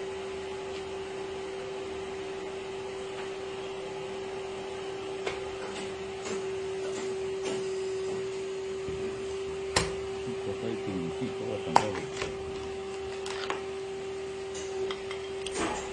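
Tube end-closing spinning machine running: a steady motor hum with scattered metallic clicks and knocks, the sharpest about ten and twelve seconds in, and sliding tones between them as the workpiece is spun and formed.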